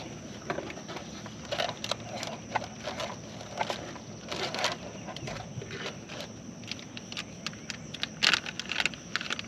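Crickets trilling steadily in the background, with irregular close clicks, knocks and scrapes of handling in a boat; the sharpest knocks come near the end.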